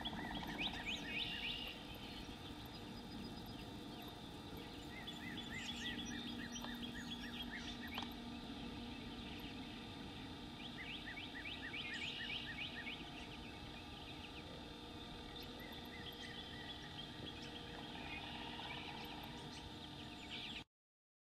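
Wild birds singing: a rapid series of short, high, quick notes, repeated every few seconds over a steady low background. The sound cuts off abruptly near the end.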